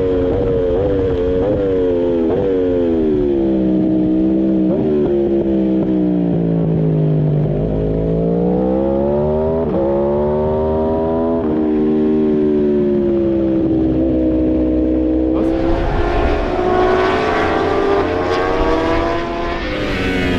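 Superbike engine heard onboard, revs falling with quick downshift blips into a corner, then pulling up through the gears and braking again. Near the end a loud rush of wind joins the engine as it accelerates once more.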